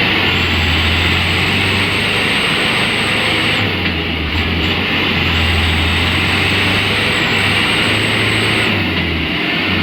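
Mitsubishi Canter light truck's diesel engine running hard under load, a loud steady low drone, as the truck labours to climb a slippery incline it is bogged on. A thin high whine comes and goes over it.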